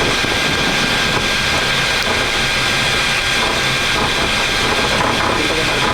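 Steady flight-deck noise of a Boeing 737 MAX taxiing on its number 2 engine alone, the number 1 engine shut down: an even rush of air and engine noise with a faint steady high whine.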